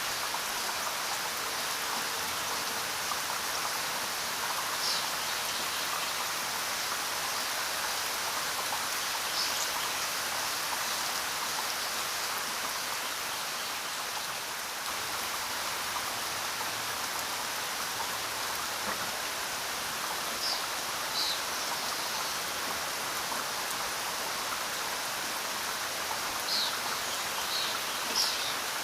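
Steady rain falling, an even hiss. A few brief high-pitched sounds stand out over it, several of them near the end.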